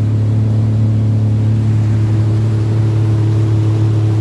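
Jet ski engine running at a steady speed: a constant low hum that holds the same pitch throughout.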